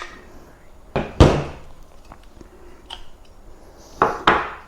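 Copper tube bender being worked by hand after a bend: two pairs of heavy thunks, metal parts knocking, about a second in and about four seconds in.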